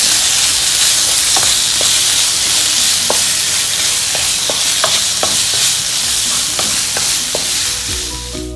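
Cooked beef pieces and onion masala sizzling in a nonstick wok while a wooden spatula stirs them, scraping and tapping against the pan at irregular intervals. The sizzle eases off near the end.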